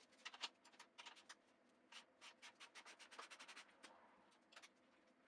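Near silence with faint, irregular small clicks and scratches, denser in the middle, such as tools or parts being handled.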